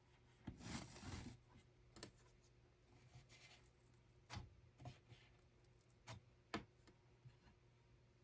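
Faint handling sounds over a low steady hum: a brief rustle about half a second in, then scattered light clicks and taps.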